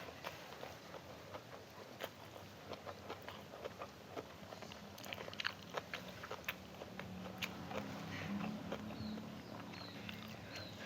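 Close-miked chewing and mouth sounds of someone eating chicken liver and gizzard with stir-fried water spinach, a run of small irregular wet clicks and crunches.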